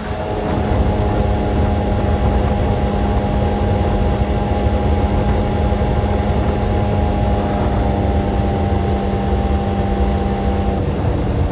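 Motorcycle engine running at steady revs while riding, its note holding even until it shifts near the end, with wind rumbling on the microphone.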